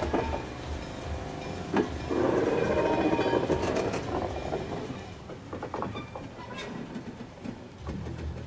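Electric railway car rolling past on jointed track, its wheels clicking over the rail joints with a low rolling rumble.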